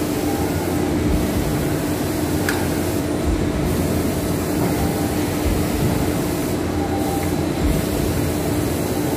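A machine running steadily with a constant hum and a continuous rushing noise.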